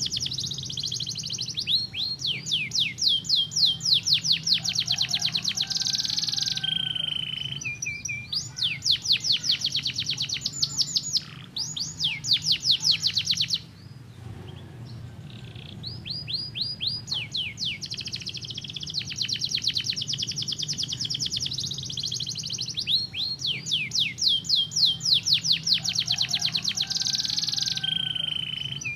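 Domestic canary singing: long, fast trills of rapidly repeated high notes, broken by a short pause about halfway through.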